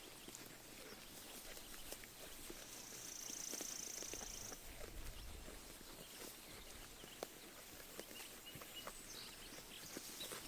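Sheep grazing close by: faint, irregular soft clicks of grass being torn and chewed. A bird gives a high, steady trill for about two seconds near the start, and a few short chirps near the end.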